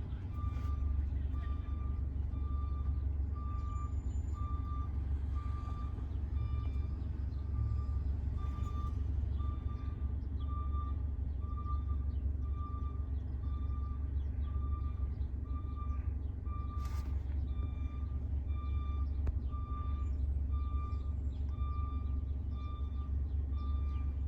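Fire truck backing up: its reverse alarm beeping steadily at about one beep a second over the low, steady running of its diesel engine. One short sharp knock or clank about two-thirds of the way through.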